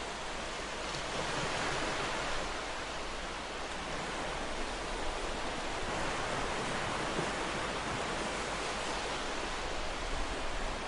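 Ocean surf: a steady rush of waves breaking and washing, swelling slightly about two seconds in.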